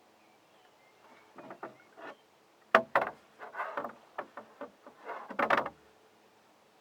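Canoe paddling: a few sharp knocks of the paddle against the canoe, the loudest nearly three seconds in, with splashing paddle strokes in the water in between.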